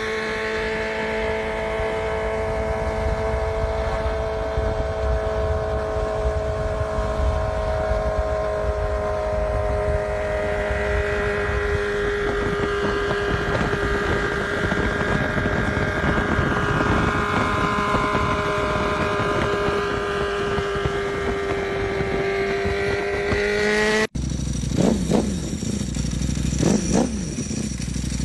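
Four-cylinder motorcycle engine held at high revs with a steady, high-pitched exhaust note that dips slightly and then climbs before cutting off abruptly. After the cut come two short throttle blips about two seconds apart.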